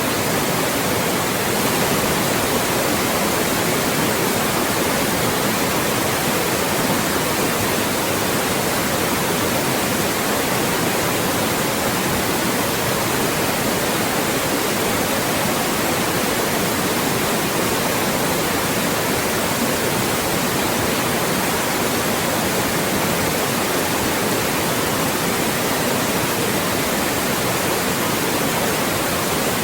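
Loud, steady white noise, an even hiss across the whole range, generated to mask speech.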